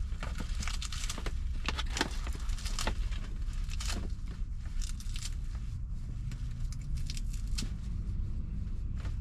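Lettuce being sliced and torn into smaller pieces: irregular crisp crackles and snaps of leaves breaking, over a steady low rumble.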